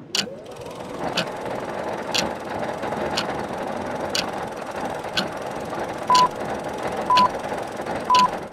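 Countdown sound effect of the old film-leader kind: a steady whirr with a click once a second, and a short high beep on each of the last three seconds. It cuts off at the end.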